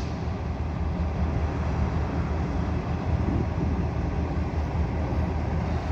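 Diesel-electric freight locomotives idling: a steady, low engine rumble with no change in pace.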